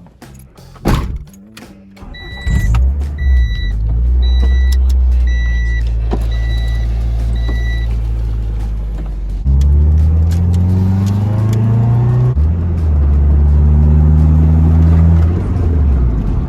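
A thump, then a car engine starts and runs while a warning chime beeps about once a second. The engine then revs up steadily under acceleration, drops sharply in pitch at a gear change, and climbs again before easing off.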